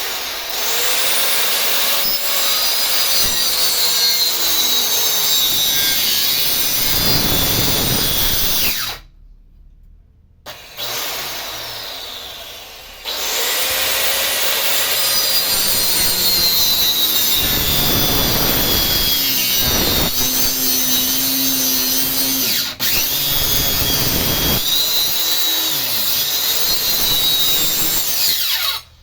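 Power tool cutting into a wooden stump in long runs, each starting with a quick spin-up. It stops for about a second and a half near the middle, runs briefly and more weakly, then runs again until just before the end.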